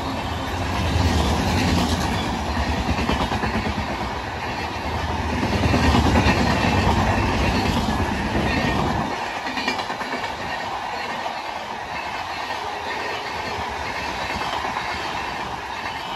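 Empty passenger coaches of a train rolling past, their wheels clicking over the rail joints. A low rumble drops away about nine seconds in, and the sound eases off as the brake and generator car at the rear goes by.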